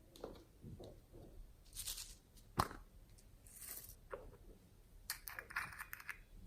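Slime being squished and stretched by hand: soft sticky squelches, one sharp pop about two and a half seconds in, and a short crackly stretch near the end.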